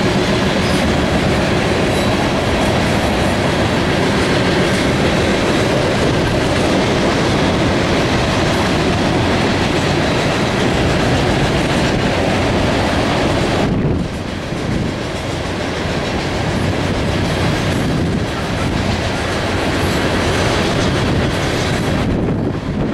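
Freight train of open-top hopper cars rolling past, a steady rumble of wheels on rail. The sound drops and changes abruptly about fourteen seconds in.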